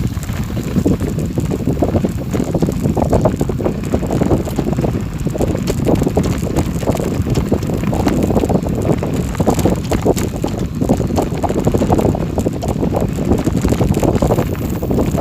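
Wind buffeting the microphone, a loud steady rumble with dense crackling and rattling of movement along a forest road.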